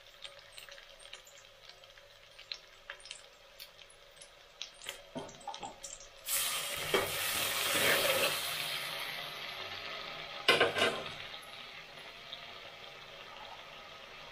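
Onion and garlic sautéing in a metal pot with light crackles and ladle taps, then a sudden loud sizzle about six seconds in as soy sauce hits the hot pot, dying down over a few seconds. Near eleven seconds a metal ladle stirs and scrapes the pot, leaving a soft steady sizzle.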